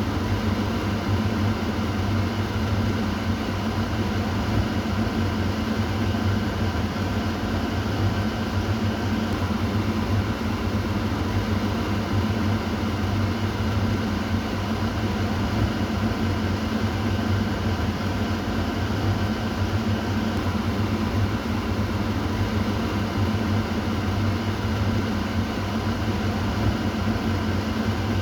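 Kitchen exhaust fan running steadily: an even whoosh of air over a low motor hum.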